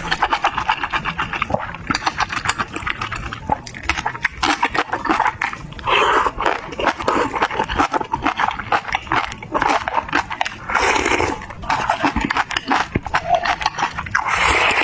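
Close-miked eating sounds: wet chewing with many small crunches and mouth clicks as spicy kimchi, pickled radish and instant noodles are eaten, with a few longer slurps about six and eleven seconds in and near the end.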